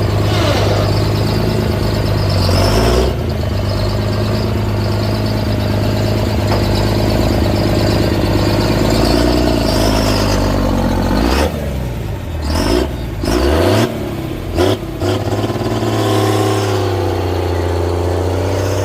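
Large truck engine running with a steady low rumble, revved up and down several times, with a stretch of quick throttle blips about halfway through.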